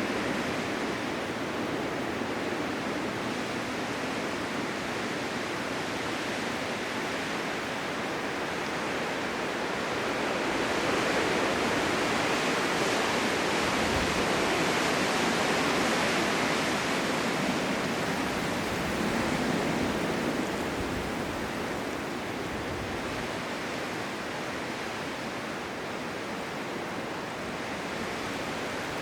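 Blizzard wind blowing as a steady rushing noise. It swells about a third of the way in and eases again toward the end.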